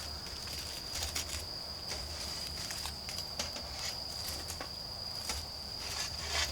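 Autumn crickets trilling in one steady high-pitched tone, over the crackle and sharp pops of a wood campfire.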